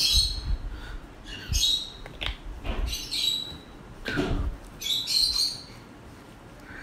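A bird calling: short high chirps and squawks repeating every second or two, with one lower, fuller call about four seconds in.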